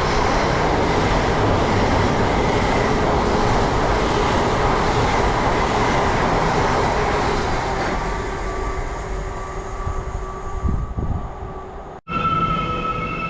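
A train running along the tracks through the station with a loud, steady rumble that fades over the last few seconds. Near the end it cuts off abruptly and music begins.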